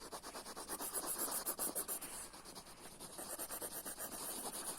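Colored pencil scribbling on paper in quick back-and-forth colouring strokes, several a second, a steady scratchy rasp.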